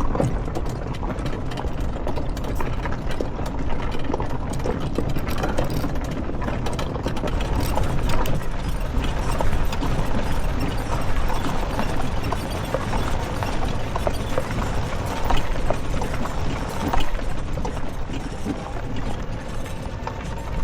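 Quad bike engine running, with a steady low rumble and many small rattles and knocks over it.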